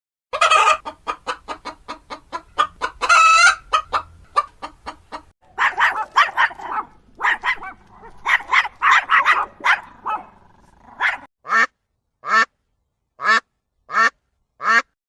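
Farm fowl calling: a quick run of short, pitched calls for about five seconds, then a denser stretch of louder calls, then single calls about a second apart near the end.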